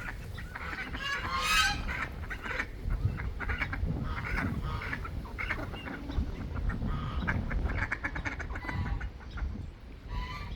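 A small flock of domestic ducks calling, many short quacks overlapping one another, the loudest about a second and a half in.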